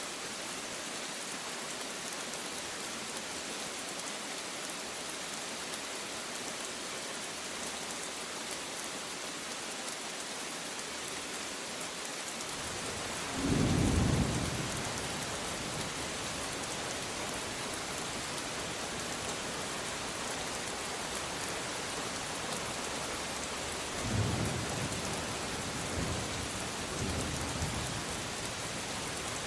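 Steady heavy rain falling, with a roll of thunder rumbling in about halfway through and a few fainter rumbles near the end.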